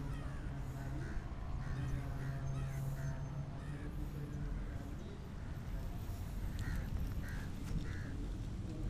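A bird calling in a series of short repeated calls, several in the first few seconds and three more near the end, over a steady low hum.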